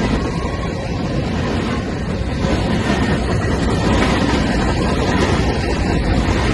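A loud, steady low rumble of a vehicle, with no distinct strokes or changes.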